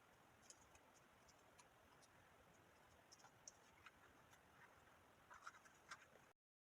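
Near silence: faint hiss with scattered light clicks and scratches of cardstock being handled, a small cluster of them about five seconds in. The sound cuts off to dead silence shortly before the end.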